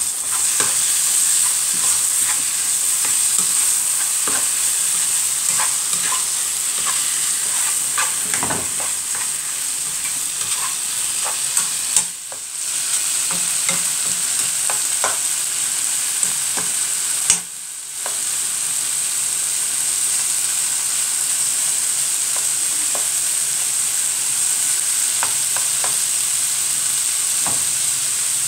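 Pieces of chicken breast frying in a pan with a steady sizzle, stirred with frequent small scrapes and clicks. The sizzle cuts out for a moment twice, each time just after a sharp click.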